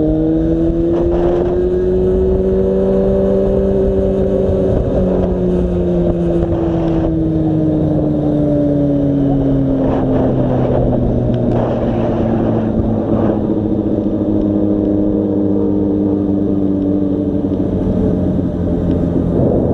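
Yamaha FZ6's 600 cc inline-four motorcycle engine running under way with wind rush. Its pitch climbs gently over the first few seconds, then slowly falls as the throttle eases.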